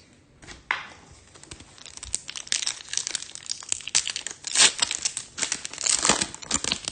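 A trading-card pack's foil wrapper being torn open and crinkled by hand, a run of irregular sharp crackles that grows busier after the first couple of seconds.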